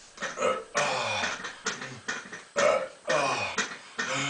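A man's forceful breathy exhalations and short grunts, several in a row and each falling in pitch, from the strain of dumbbell fly repetitions.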